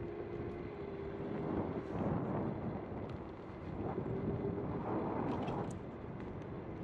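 Bird electric scooter's motor whining steadily in two close tones while riding, under a rushing of wind on the microphone.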